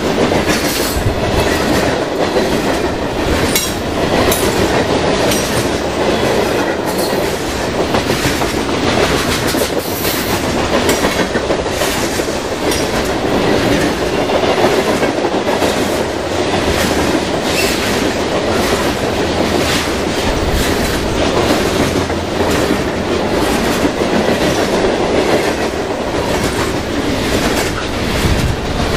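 Freight train cars rolling past at speed, their wheels clacking steadily over the rail joints, with a little wheel squeal.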